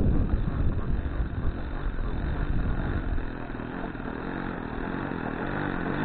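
Saito 40 four-stroke glow engine of an RC model airplane idling on the ground after landing. It is louder and rougher at first, easing over the first few seconds, then settles into a steady idle.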